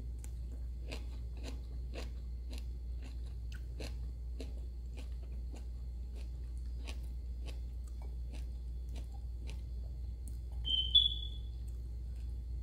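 Close-up mouth sounds of someone chewing food, with wet clicks about twice a second that stop near the end. About eleven seconds in there is one short, high squeak that steps up in pitch, louder than the chewing.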